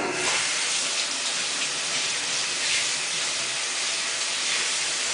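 Water rushing into a Samsung WF8804RPA front-loading washing machine as it fills, a steady hiss of spraying water used to wet the clothes before the wash.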